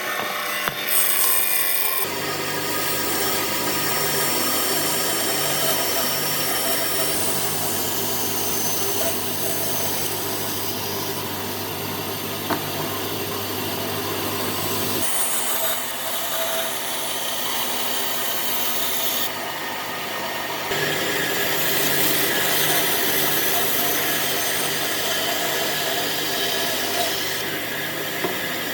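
A power tool working wood: a steady whirring, rasping run that changes character a few times along the way, with a few light knocks.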